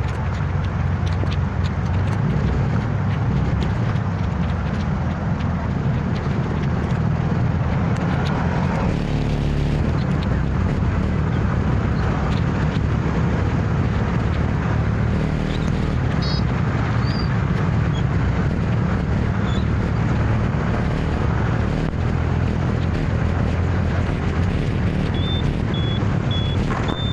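Motor scooter riding through city traffic: a steady low rumble of engine and road. Near the end there is a run of short high beeps.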